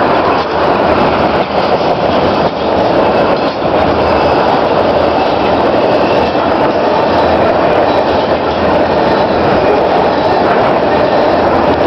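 Freight train of petroleum tank cars rolling past at steady speed: a continuous rumble and rattle of steel wheels on the rails, with a few faint knocks about once a second in the first few seconds.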